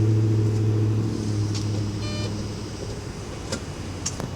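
Car engine heard from inside the cabin, a strong low steady hum that sets in sharply and fades gradually over a few seconds.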